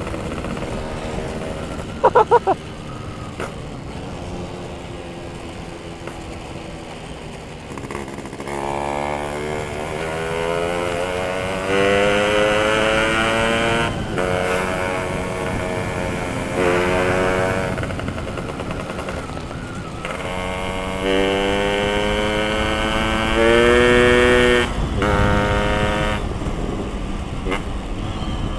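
Yamaha RX Special two-stroke single-cylinder motorcycle engine accelerating through the gears, its revs climbing in long rising pulls and dropping back at each shift. The strongest pull comes in the second half. About two seconds in there are three brief sharp sounds.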